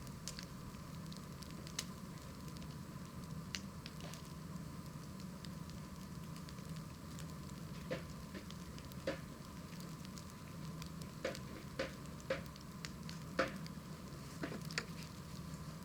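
Wood fire crackling: scattered sharp pops and snaps over a steady low background noise, the pops coming more often and louder in the second half.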